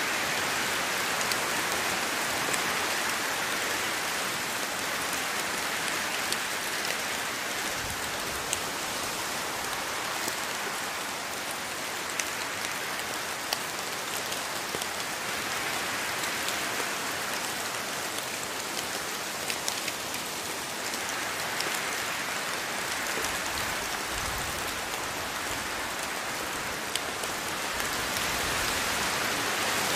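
Steady rainfall in a rainforest, a dense hiss of drops on leaves with scattered individual drop ticks, swelling and easing slowly, with a few brief low rumbles.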